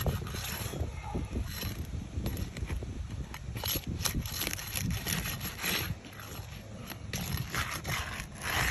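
Asphalt roof shingles being handled and lifted, giving irregular scraping and crinkling noises with a few sharp clicks, over a steady low rumble.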